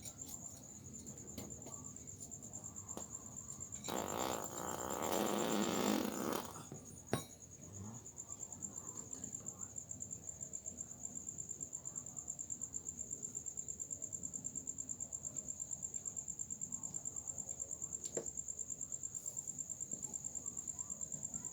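Cricket chirping: a steady high-pitched trill pulsing about four times a second. About four seconds in, a burst of rustling noise covers it for two seconds, with a sharp click shortly after.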